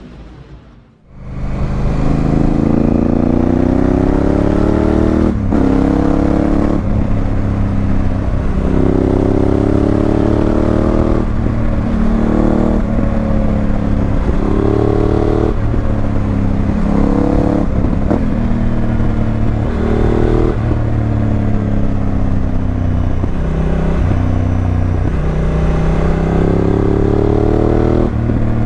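Honda Africa Twin CRF1000L's parallel-twin engine through an aftermarket Remus exhaust, pulling hard up through the gears: the pitch climbs, drops sharply at each shift, and climbs again, over and over. It comes in about a second in.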